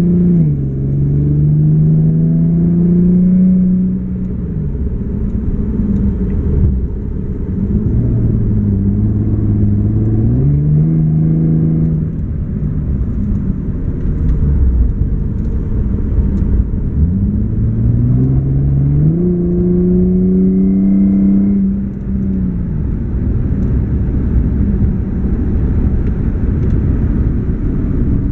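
Infiniti G37 sedan's 3.7-litre V6 with a Top Speed Y-back exhaust and Berk high-flow cats, heard from inside the cabin with the windows up. The engine pulls under acceleration, its pitch climbing and then dropping at each gear change three times, then running steadier near the end.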